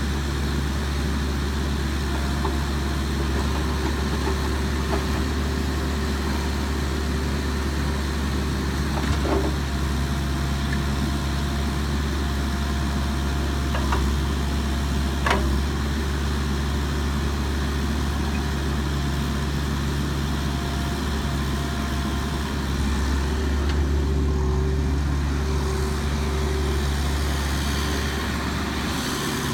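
A 2002 Bobcat 331 compact excavator's diesel engine running steadily, with a few brief clicks along the way.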